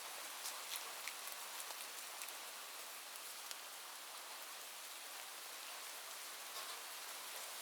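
Light rain falling steadily, a soft even hiss with scattered individual drop ticks.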